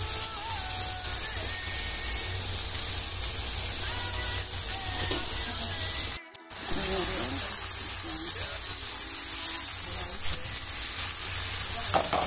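Diced zucchini, tomato and onion frying in oil in a nonstick pan, a steady high hiss of sizzling. The sound drops out briefly about six seconds in.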